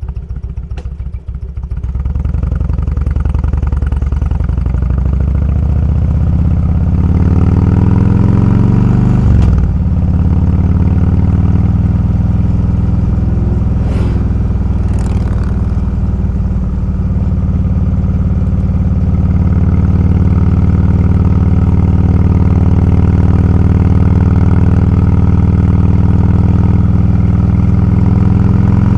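Motorcycle engine ticking over, then pulling away and accelerating, rising in pitch, with a brief drop at a gear change about nine seconds in, then running steadily at cruising speed.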